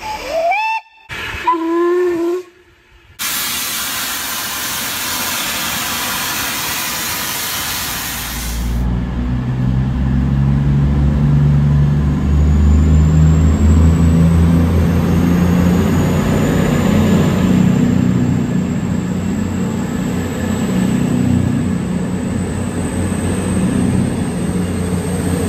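A steam locomotive whistle gives a few short toots that rise in pitch, followed by a loud, steady hiss of steam. After a cut, a CrossCountry Voyager diesel multiple unit's underfloor diesel engines run as the train pulls away and picks up speed, with a faint rising high whine.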